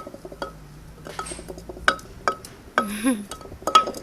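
Pestle striking a Thai krok mortar in sharp, irregular knocks, each with a short ring, as chili paste is pounded; the knocks come faster near the end.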